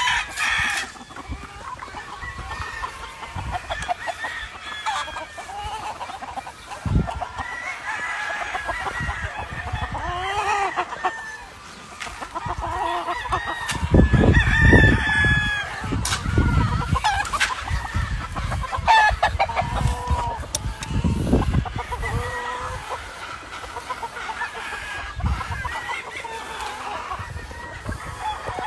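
Gamefowl roosters and hens clucking and crowing, with many overlapping calls. Bursts of low rumbling noise come through, loudest about halfway.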